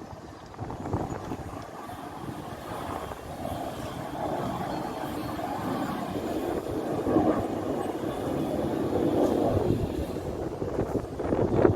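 Military jet engine noise: a rough roar that grows steadily louder over several seconds as a fighter jet comes in to land. Wind gusts buffet the microphone near the end.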